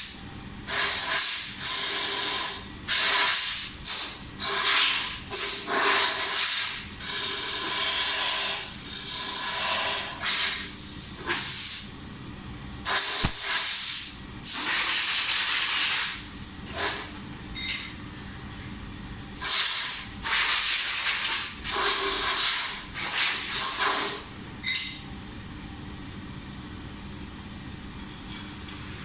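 Repeated bursts of loud hissing, each about a second long with short gaps, stopping about 25 seconds in. A quieter steady background hum remains underneath.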